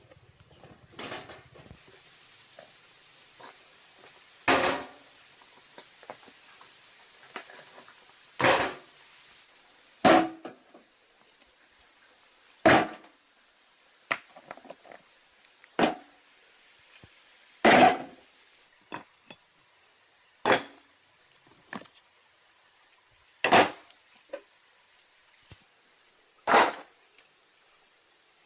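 A hand tool striking hard, about nine heavy blows spaced two to three seconds apart, with lighter knocks in between.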